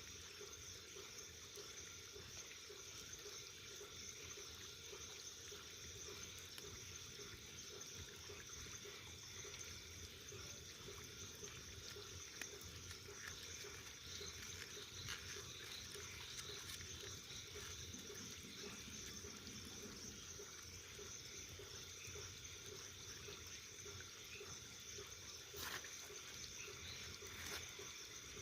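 Wood fire burning, a faint steady hiss with scattered small crackles and a few sharper pops in the second half.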